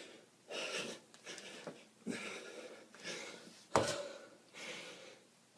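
A man breathing hard from exertion, with noisy, wheezy breaths about once a second, and one sharp knock nearly four seconds in.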